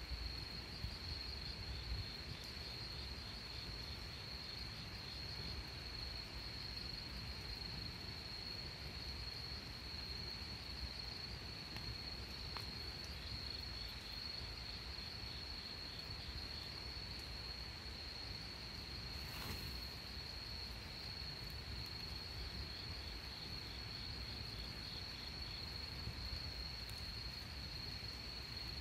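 Insects trilling: one steady high-pitched trill, joined now and then by a fainter pulsing chirp, over a low rumble. A single short crackle about twenty seconds in.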